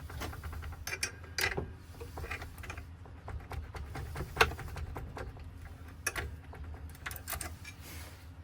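Irregular light metallic clicks and small scrapes from handling a key and ignition lock parts, with one sharper click about four seconds in, over a steady low hum.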